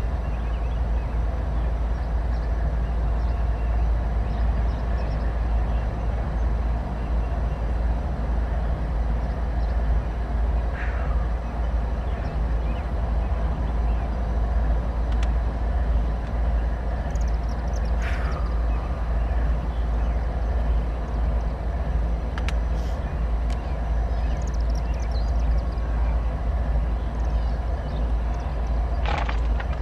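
Freight train rolling past steadily: a continuous deep rumble of cars on the rails, with three short falling squeaks.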